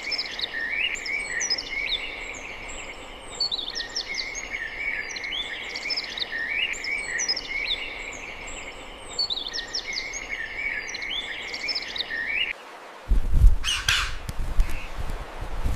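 Songbirds singing repeated chirping phrases, a new phrase every three seconds or so. Near the end the birdsong stops suddenly and is replaced by a low rumble with a short rustle.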